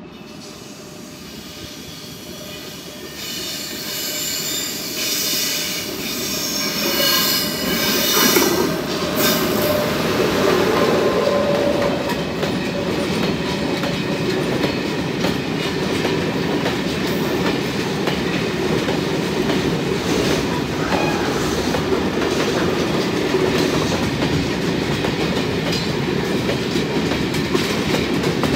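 Freight train hauled by a VR Sr1 electric locomotive approaching and passing, growing louder over the first eight seconds with a high-pitched squeal as the front of the train nears. Then a long string of covered goods wagons rolls by with a steady rumble and clickety-clack of the wheels.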